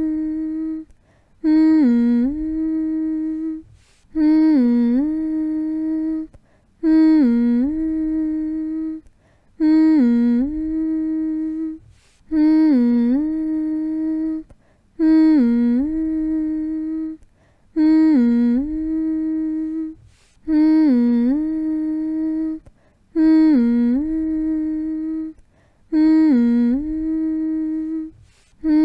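A person humming one short phrase over and over, about every two and a half to three seconds. Each hum dips in pitch and comes back up, then holds a single steady note before a brief pause.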